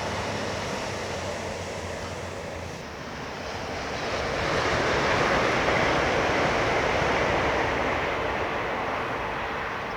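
A train passing through at speed without stopping: a rushing noise that builds from about four seconds in, peaks, then slowly fades.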